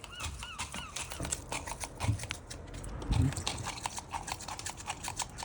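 Seagull gulping down worms: rapid sharp clicks of its beak snapping and pecking, with a few short high squeaks in the first second.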